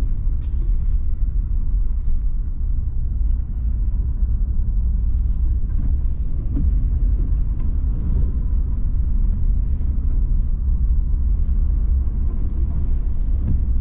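Steady low rumble of a vehicle driving, heard from inside the cab: engine and tyre noise with no change in pace.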